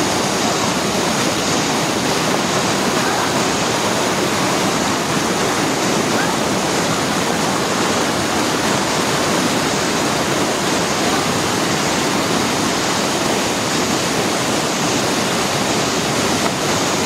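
Whitewater rapid on a river in high flow: a loud, steady rush of churning water with no let-up.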